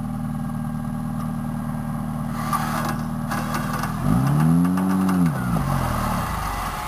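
Lifted off-road 4x4's engine running steadily at low revs as it crawls, then revved up and back down once about four seconds in, with some clatter around it.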